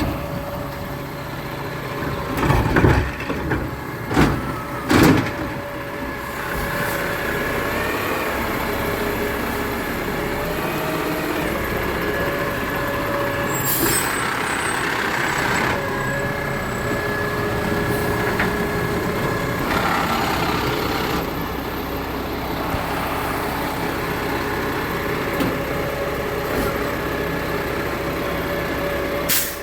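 Garbage truck running, with a steady whine over the engine. A few loud thumps come in the first few seconds, and a short air-brake hiss comes about halfway through.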